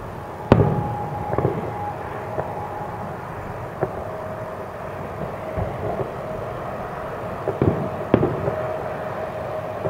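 Aerial firework shells bursting at a distance. A loud boom comes about half a second in, then a few fainter scattered booms, and two more strong booms close together near the end.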